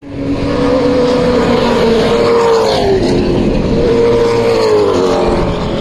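Racing V8 of a historic muscle car running hard at high revs, loud, its pitch dropping and rising as the revs fall and climb, with another drop near the end.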